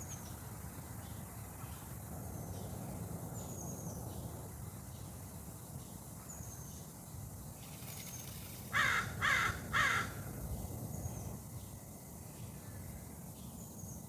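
Three loud, harsh bird calls in quick succession, about half a second apart, a little past the middle. A faint, high, falling chirp repeats every second or two throughout.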